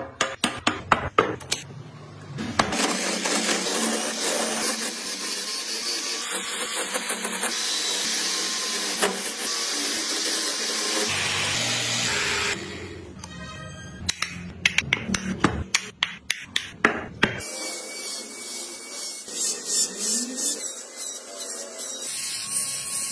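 Power tool working wood, a steady noisy whir in several abruptly changing stretches, with bursts of sharp clicks and taps between them.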